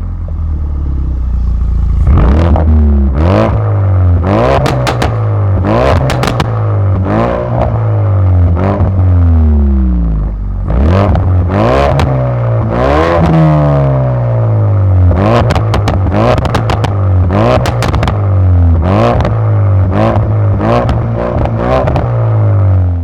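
Ford Focus RS MK3's turbocharged 2.3-litre four-cylinder engine through an aftermarket exhaust, revving and accelerating repeatedly, its pitch rising and falling, with sharp exhaust cracks throughout.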